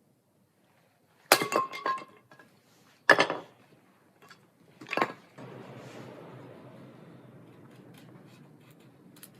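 Cookware clinking and knocking: a quick clatter with a short ring, then two more knocks, followed by a soft, steady rushing noise that slowly fades.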